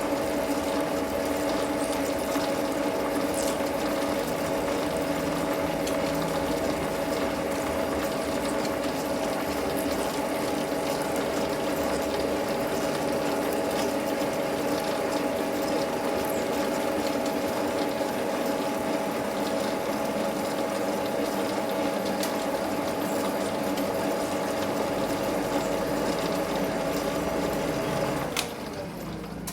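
Manual metal lathe running steadily with its gear whine, then winding down as the spindle is stopped near the end.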